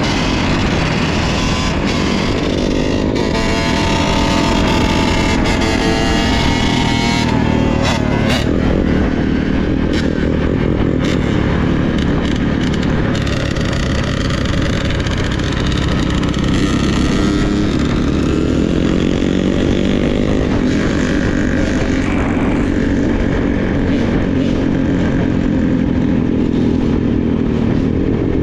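Dirt bike engine running under way, its pitch rising and falling repeatedly as the throttle is worked and gears change.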